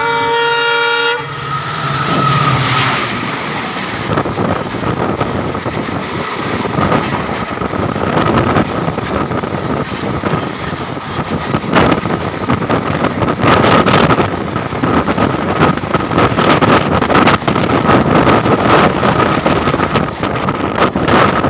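Mumbai suburban electric local train running at speed, opening with a horn blast of about a second. Then comes a steady high whine over the running noise of the wheels, with irregular clatter over the rail joints that grows louder toward the end.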